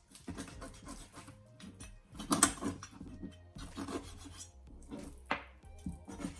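Rubbing and scraping of raw chicken pieces being handled and skinned by hand, in irregular strokes, the loudest about two and a half seconds in.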